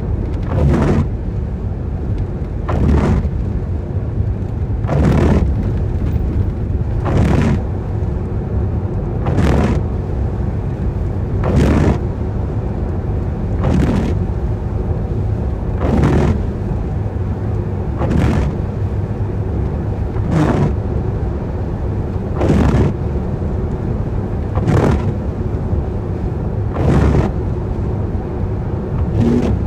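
Inside a car driving in the rain: the windscreen wipers swish across the glass at an even beat, about once every two seconds, over a steady low rumble of road and engine noise and the hiss of rain.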